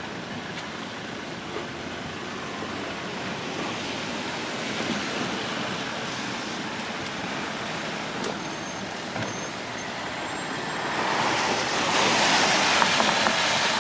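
Street traffic on rain-wet roads, a steady hiss. Near the end a vehicle passes close, its tyres swishing louder and then easing.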